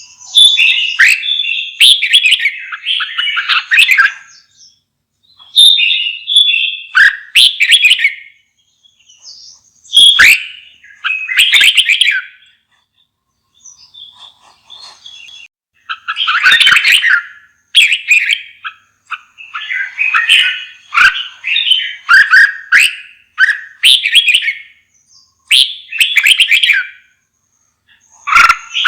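Red-whiskered bulbul singing: short phrases of quick, whistled notes repeated every second or two with brief gaps, and a quieter lull near the middle.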